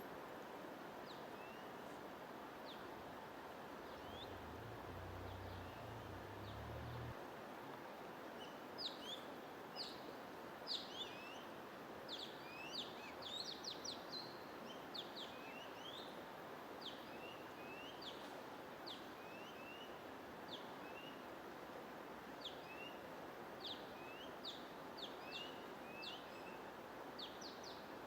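Small birds chirping in short, quick high notes over a steady white-noise hiss; the chirps are sparse at first and come thick and fast from about eight seconds in.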